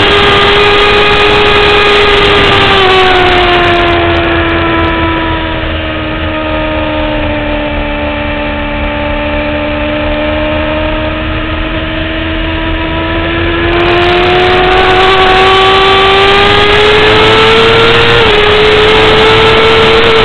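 2009 Kawasaki ZX-6R's inline-four engine heard from on the bike at speed: the engine note falls in pitch and quietens for about ten seconds, then climbs steadily back up, with a small jump in pitch near the end.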